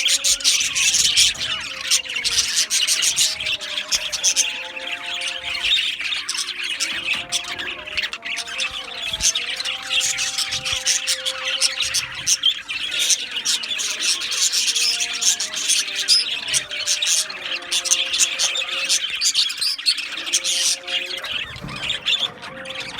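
A flock of budgerigars chattering, chirping and squawking nonstop, many birds at once, with a slow melody of held notes playing softly underneath.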